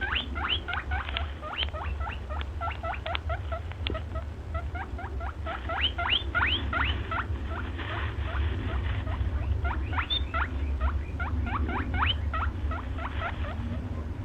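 Small animals squeaking: a rapid, continuous string of short, high-pitched squeaks, several a second, over a low steady hum.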